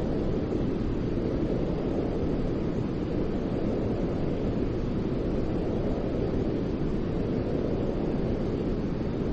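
Steady, deep white noise for soothing a baby to sleep: an even hiss weighted low, with a faint slow swell and no breaks.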